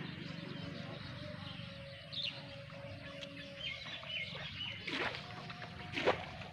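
Birds chirping in the open over a low steady rumble. Near the end a louder sharp sound repeats about once a second.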